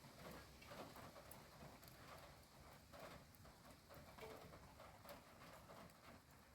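Faint rain: irregular drops pattering and tapping over a soft hiss.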